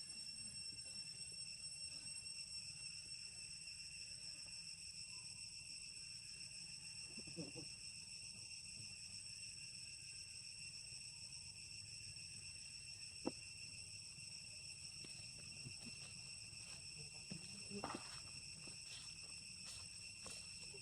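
Faint, steady high-pitched drone of insects chirring at a constant pitch. A single sharp click comes about thirteen seconds in, with a few brief faint sounds around it.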